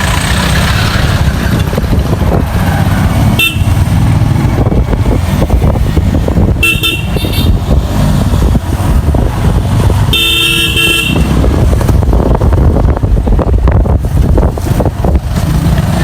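Yamaha FZS V2 motorcycle riding in traffic, its engine and wind making a steady low rumble on the mic. A vehicle horn sounds briefly about seven seconds in and again, longer, about ten seconds in.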